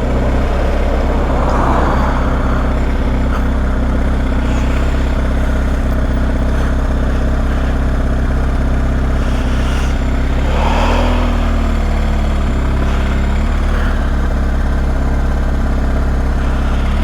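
BMW R1250 motorcycle's boxer-twin engine running at low road speed. The revs rise briefly about ten seconds in, then settle.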